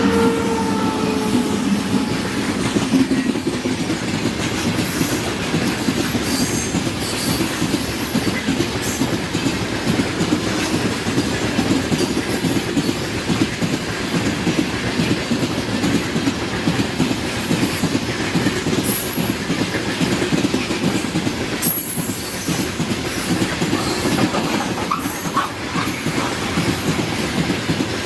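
Freight train wagons rolling past close by: a steady, loud rumble and clatter of wheels over the rails, with a few brief high wheel squeals. A locomotive horn blast trails off in the first second.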